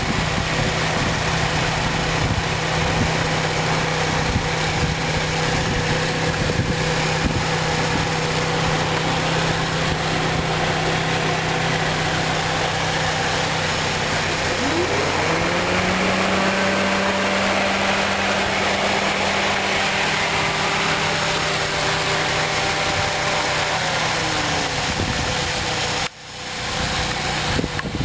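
2003 Saturn VUE's 2.2-litre four-cylinder engine idling steadily. About halfway through the idle speed rises a little and holds for several seconds before settling back down, and near the end the sound briefly drops out.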